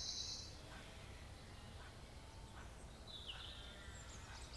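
Faint woodland ambience of birds over a low, steady background rumble. A high, fast trill stops about half a second in, and a short call sliding down in pitch comes around three seconds in, followed by a few faint high chirps near the end.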